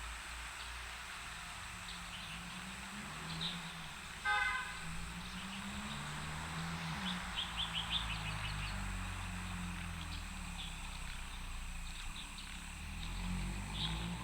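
Outdoor ambience of distant road traffic, engines droning and shifting in pitch, with one short vehicle horn toot about four seconds in. Birds chirp throughout, with a quick run of chirps near the middle.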